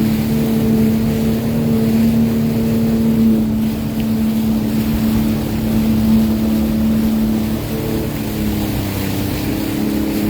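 Sea-Doo Fish Pro personal watercraft's engine running at a steady speed over a wash of wind and water noise; its note shifts slightly about eight seconds in.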